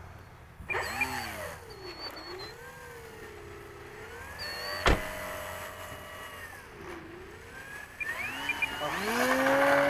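Electric motor and propeller of a radio-controlled Carbon-Z Cessna 150 model plane, its whine sweeping up and down several times as the throttle is worked, with a sharp click about five seconds in. Near the end the pitch climbs and holds for a short takeoff with full flaps at about half throttle.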